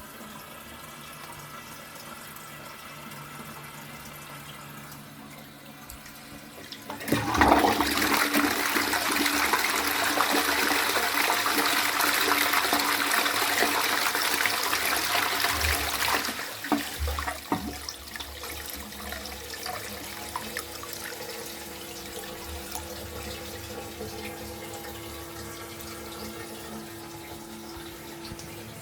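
Twyford Option close-coupled toilet: the cistern's ball-type fill valve runs steadily as it refills. About seven seconds in, the lever-operated siphon flush sends water rushing loudly into the pan for about nine seconds, ending in gurgles. The fill valve then carries on refilling the cistern with a steady tone.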